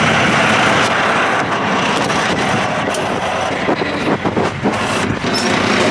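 Heavy truck running, a steady noise of engine and road, with a few knocks and rattles about four seconds in.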